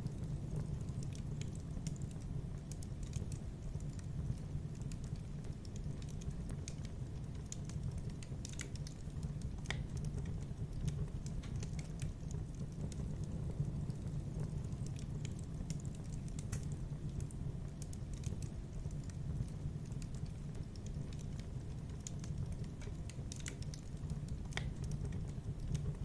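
Wood fire crackling in a fireplace: irregular, scattered sharp pops and snaps over a steady low background of the burning fire.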